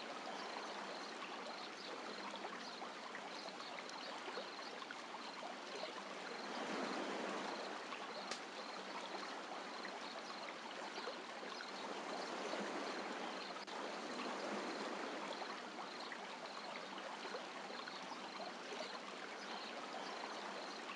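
Seawater washing on a beach: a steady hiss of surf that swells louder twice, about a third of the way in and again past the middle.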